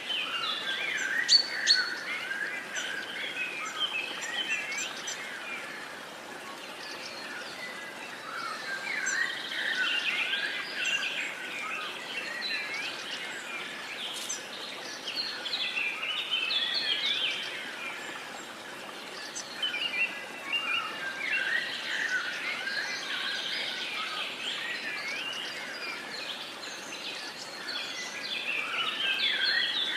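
A chorus of many songbirds singing and chirping, coming in waves of busier calling, over a steady background hiss.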